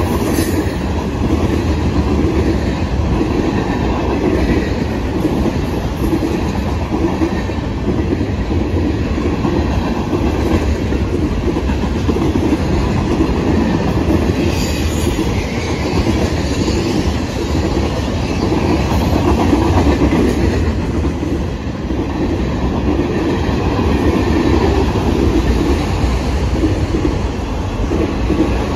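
Freight train cars rolling past: a steady rumble of steel wheels, with a clickety-clack as the wheels cross the rail joints.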